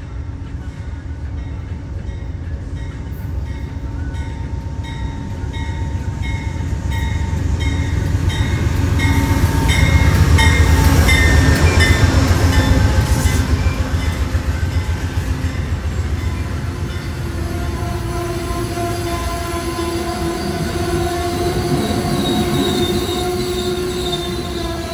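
Amtrak diesel passenger train arriving and rolling past: the locomotive's engine and wheels rumble, loudest as it goes by about halfway through. A regular ringing repeats about twice a second in the first half, typical of the locomotive bell. In the second half, as the coaches roll past and the train slows, steady high squealing tones come in.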